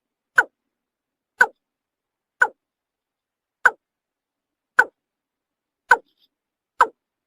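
Watercock (kora) calling: seven short, hollow notes repeated about once a second.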